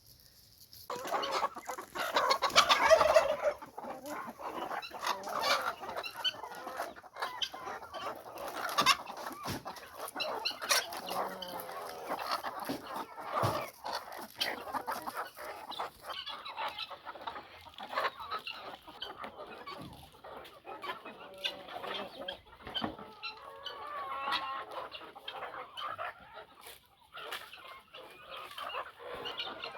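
Chickens clucking and calling in overlapping short calls, with scattered sharp clicks.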